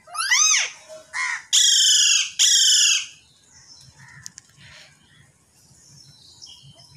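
A bird calling loudly and harshly four times in the first three seconds, the last two calls long and drawn out, followed by faint scattered chirps of small birds.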